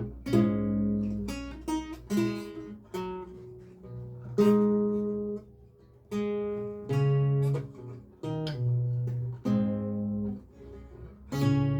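Solo lute playing a recercar: plucked single notes and chords, each ringing out and fading, in a slow, uneven practice tempo with a brief pause about halfway through.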